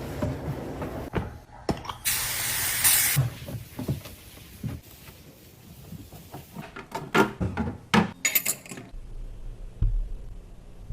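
Kitchen objects being handled and set down, with scattered knocks and clicks and a hissing sound lasting about a second near the start.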